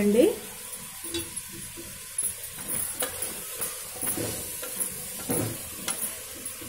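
Chicken pieces frying and sizzling in an aluminium pressure cooker as a spatula stirs them, scraping and knocking against the pot a few times.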